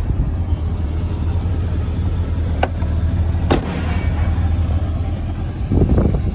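1971 Lotus Elan's Lotus-Ford Twin Cam four-cylinder engine idling steadily, with two short sharp clicks midway.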